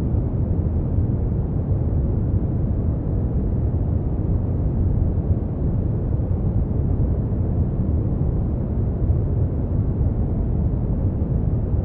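Brown noise: a steady, deep rumbling hiss, strongest in the low end and fading out toward the highs, with no changes.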